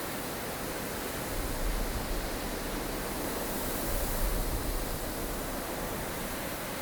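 Blustery snowstorm wind blowing as a steady rushing noise, with two deeper gusts swelling about a second and a half in and again around four seconds.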